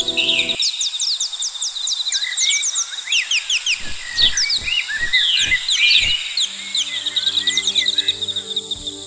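A flock of small birds chirping busily in quick, short downward notes over a steady high buzz, with a few soft low thuds in the middle. A soft background music pad drops out just after the start and comes back about two-thirds of the way through.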